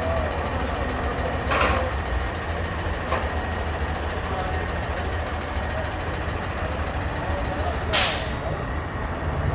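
Garbage truck engine running steadily with a low rumble, with two short air-brake hisses, about one and a half seconds in and again, louder, near the end.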